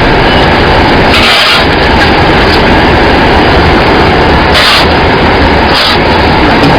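Loud, steady machinery noise from a running rice husk carbonization furnace plant, with a low rumble and three short hisses.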